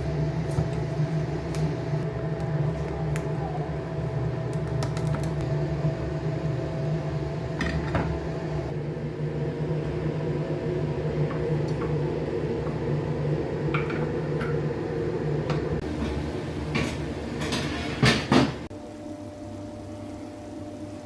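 A steady appliance hum with light clinks of dishes and utensils scattered through it. A couple of louder knocks come about eighteen seconds in, and the hum drops away right after them.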